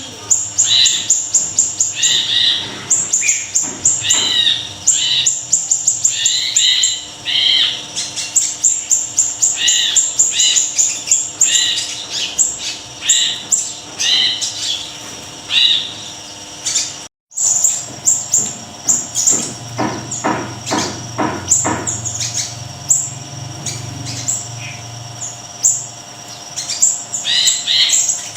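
Small siri-siri songbird singing loudly in rapid runs of short, sharp, high chirps and trills, phrase after phrase, broken by a short silent gap about two-thirds through.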